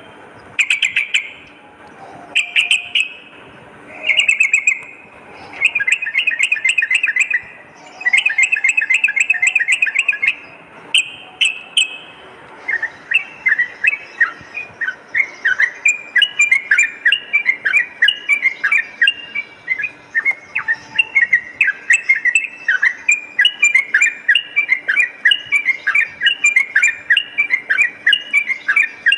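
Yellow-vented bulbul (trucukan) singing. For about twelve seconds it gives short bubbly bursts of rapid notes, then breaks into a long unbroken run of quick chattering notes, several a second.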